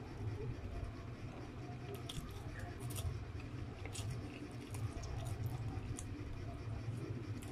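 Close-up chewing of a mouthful of stir-fried noodles, with scattered wet mouth clicks and smacks over a steady low hum.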